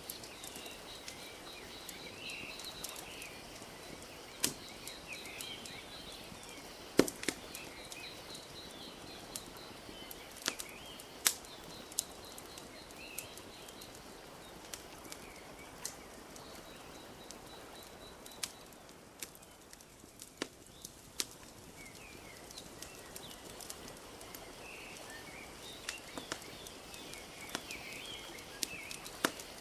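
Wood fire crackling with irregular sharp pops, over a soft steady wash of lapping lake water. Small birds chirp and trill in the background.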